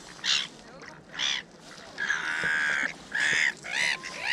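Geese honking over and over, about six loud calls, one drawn out for nearly a second about two seconds in.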